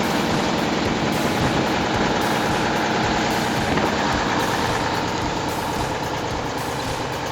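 Heavy machinery engine running steadily at a constant pace, easing off slightly near the end.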